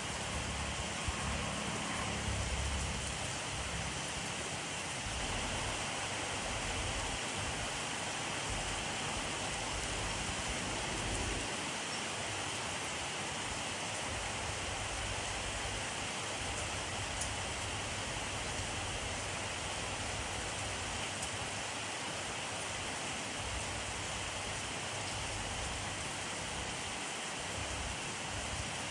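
Steady rainfall: an even hiss of rain falling on a surface, with a soft low rumble now and then.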